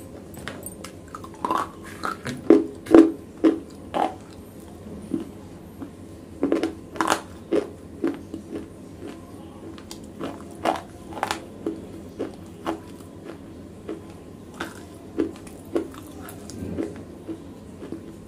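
Close-miked chewing of wet, broken black slate pieces: a run of sharp, irregular crunches, loudest about three seconds in.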